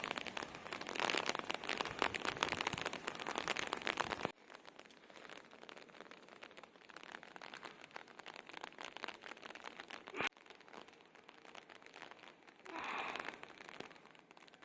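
Steady patter of falling rain, loud for about the first four seconds, then cutting suddenly to a quieter patter that runs on, with another abrupt break about ten seconds in.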